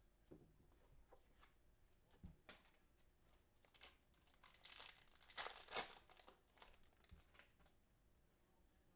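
Cellophane wrapper of a trading-card cello pack crinkling and tearing as it is handled and opened, loudest about five to six seconds in, with a few light clicks around it.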